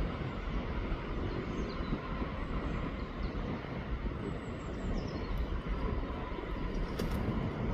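Steady rush of flowing river water under a low wind rumble on the microphone, with a few faint high chirps and a brief click near the end.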